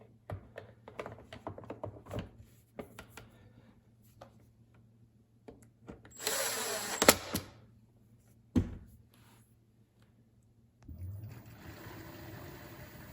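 Clicks and knocks of handling, a short loud rush with a sharp click, a single thump, then about eleven seconds in a steady rush of water starts: the dishwasher running with its circulation pump after the bearing repair.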